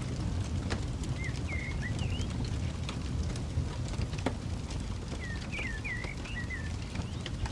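Campfire crackling, with irregular sharp pops over a steady low rumble. A bird calls in two short runs of quick, bending chirps, about a second in and again about five seconds in.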